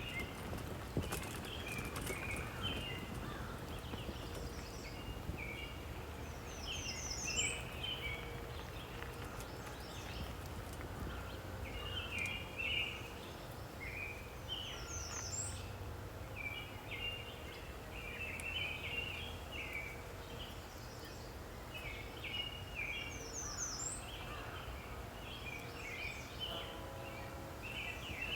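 Birds singing: one bird repeats a short, high, falling run of notes about every eight seconds while others chirp and chatter throughout, over a low steady rumble.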